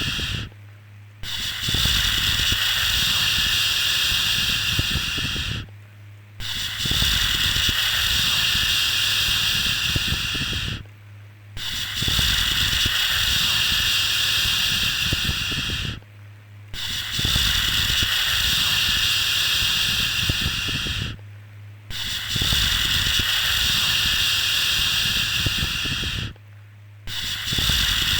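Long, steady 'shhh' shushing sound for soothing a baby, each shush lasting about four and a half seconds and breaking off for under a second before the next, about six times.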